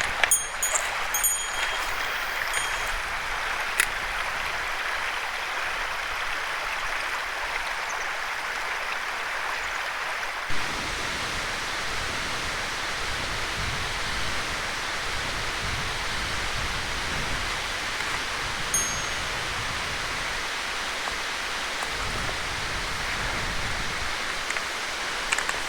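Mountain stream rushing steadily, its deeper rumble filling in about ten seconds in. A small metal bell jingles briefly in the first couple of seconds, once near the end of the second third, and again at the very end.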